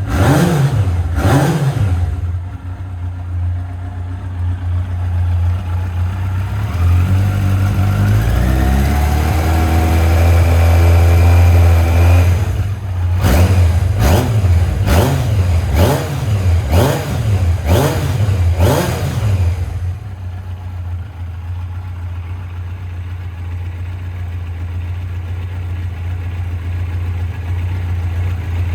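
Yamaha XJR1300's air-cooled inline-four running through a Yoshimura full exhaust system. It idles between throttle blips, with a slow rev climbing and held for a few seconds near the middle and a quick run of about seven blips after it. It settles back to a steady idle for the last third.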